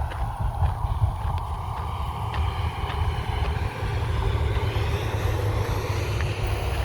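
Traffic on a nearby road, a vehicle's noise swelling and holding, over a heavy wind rumble on the phone's microphone. A few faint footsteps come in the first seconds.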